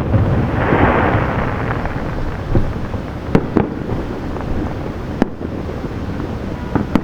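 Distant aerial fireworks: a hissing crackle swells about half a second in and fades, then a string of sharp shell bursts follows every second or two, each echoing off the city like thunder, over a steady low rumble.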